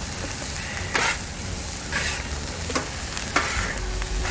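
Diced onions sizzling on a hot Blackstone griddle's steel top while a steel spatula stirs them, scraping across the plate about once a second.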